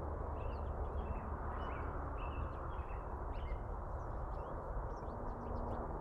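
Small birds chirping, with short high calls scattered through the whole stretch, over a steady low background rumble.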